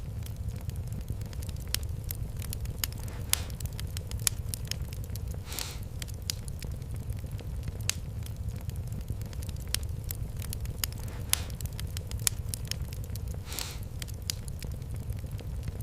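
Wood fire crackling in a fireplace: irregular sharp snaps and pops over a steady low rumble, with a longer hissing pop about six seconds in and another near the end.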